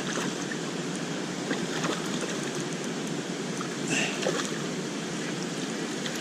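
Waterfall rushing steadily, running high after heavy rain, with a brief brighter splash-like flurry about four seconds in.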